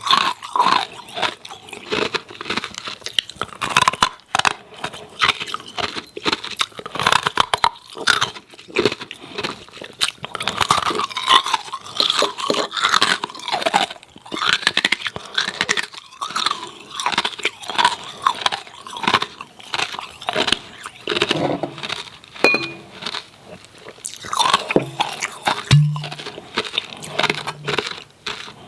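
Hard ice cubes with a freezer-frost coating being bitten and chewed close to the microphone: a steady run of loud, irregular crunches.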